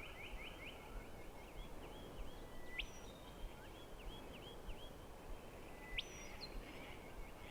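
A bird singing the same phrase again and again, about every three seconds: a sharp upward sweep, then a run of quick repeated notes. Faint background noise runs underneath.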